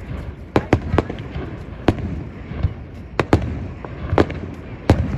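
Aerial firework shells bursting in quick, uneven succession: about eight sharp bangs, some in close pairs, with a low rumble between them.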